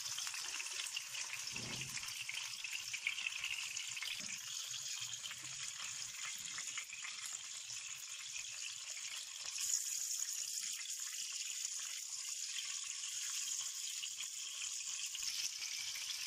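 Mutton chapli kababs shallow-frying in hot oil in a pan over a medium flame: a steady sizzle.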